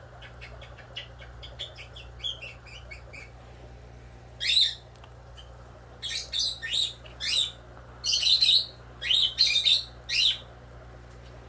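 A bird chirping: quick, faint high chirps at first, then from about four seconds in a series of about a dozen louder, sharp chirps that sweep downward in pitch.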